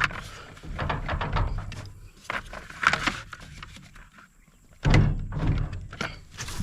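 Irregular knocks and clunks of metal tools and parts being handled during repair work on a brush cutter, the loudest about five seconds in.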